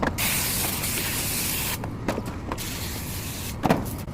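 Garden hose spraying water onto an air conditioner's condenser coil to rinse off dirt: two bursts of spray hiss, the first about a second and a half long, the second shorter. A few sharp knocks come between and after, the loudest near the end.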